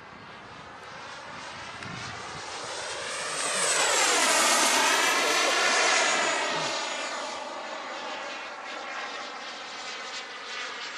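Radio-controlled model jet's gas turbine whining as the plane flies past. It swells to its loudest about four to six seconds in, with its high whine dropping in pitch as it passes, then fades away.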